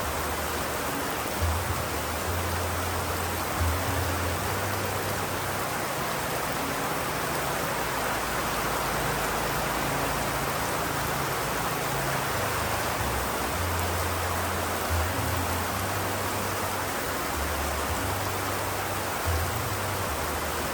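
Steady rain noise, with soft low tones underneath that come and go, and a few brief soft thumps.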